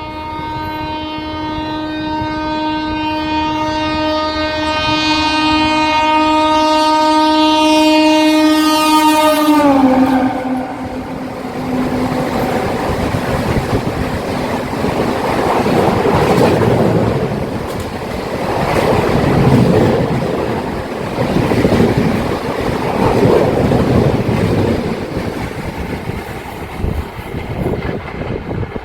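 Locomotive horn sounding nonstop as an express train approaches at speed without stopping, growing louder. About ten seconds in, the horn's pitch drops sharply as the locomotive passes, the Doppler shift of a fast pass. The horn then fades and gives way to the rush and clatter of the coaches running through.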